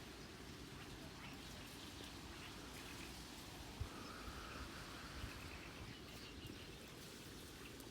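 Faint outdoor ambience: a steady low rumble, with a short faint bird call about four seconds in and a couple of soft clicks.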